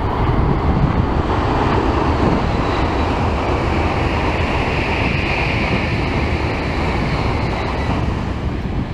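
N700-series Shinkansen train passing at speed: a steady rushing roar with a low rumble, brightest in the middle of the pass, with wind buffeting the microphone.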